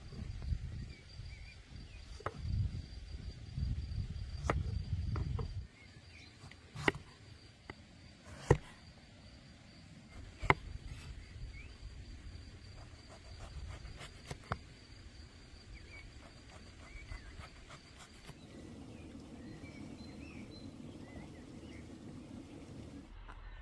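Outdoor ambience: a thin, steady high-pitched whine that stops about eighteen seconds in, with faint chirps and a low rumble in the first five seconds or so. Several sharp knocks stand out, the loudest two near the middle.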